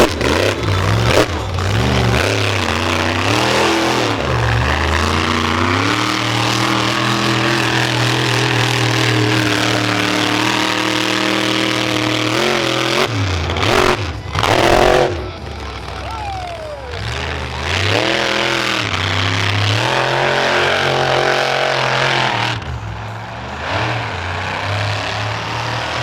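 Monster truck engine revving hard, its pitch climbing and dropping repeatedly, holding high revs for several seconds at a time, with a few sudden loud flares midway.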